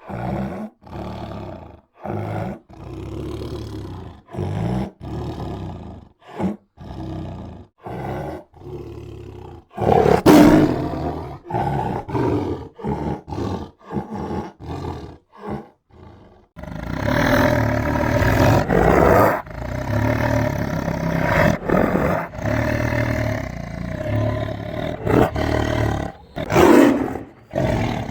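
Tiger growling and roaring. For the first half it gives a string of short growls with brief gaps and one louder roar about ten seconds in. From about sixteen seconds on the roars run together with hardly a break.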